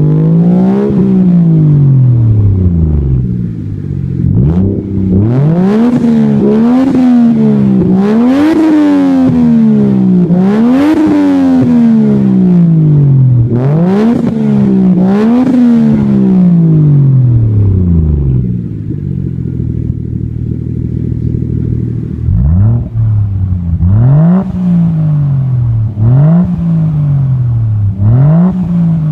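Toyota Chaser JZX100 straight-six engines being free-revved while parked, heard through aftermarket exhausts: repeated revs that climb quickly and fall back toward idle. The first car is a turbocharged Tourer V on a Kakimoto GT1.0Z Racing muffler. Later, after a quieter stretch, a second Chaser gives shorter blips about every two seconds.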